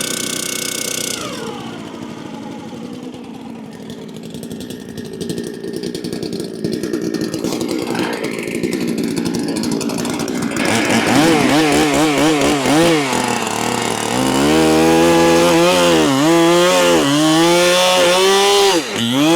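Holzfforma clone big-displacement chainsaw: it comes off the throttle about a second in and idles for several seconds, then goes to full revs from about 11 s, its pitch dipping and recovering over and over as it bogs under the load of cutting into a log.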